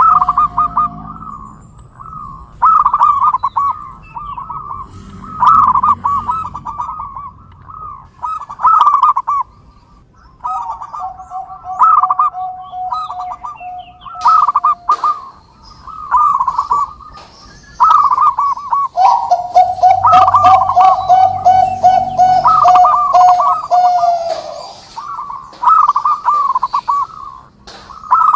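Zebra doves (perkutut) cooing: a bouncing phrase of coos repeats roughly every three seconds. Several times a lower, steady, rapid run of coos overlaps it for a few seconds, the longest around the middle.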